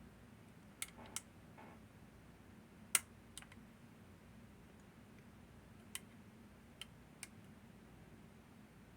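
Scattered small clicks of picking tools working the levers of a Northern Telecom NE-22 lever lock, about seven in all, the loudest about three seconds in.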